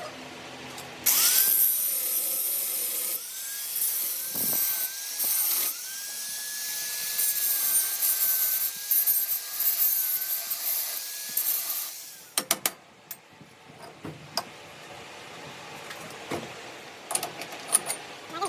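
A power tool cutting or grinding metal, its whine dipping briefly in pitch several times as it is pressed into the work. It stops after about eleven seconds, followed by a few sharp knocks.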